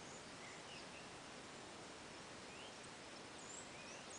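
Faint birdsong: short, high, quick chirps from small birds scattered through, over a steady hiss.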